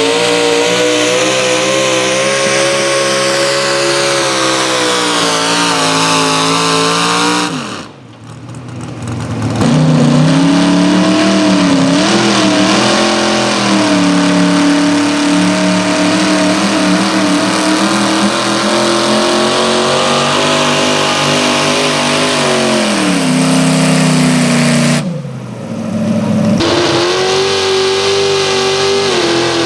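A truck or tractor engine running loud at high revs under the load of a pull sled, its pitch sagging and recovering. The sound drops away briefly twice, about eight seconds in and again around twenty-five seconds in.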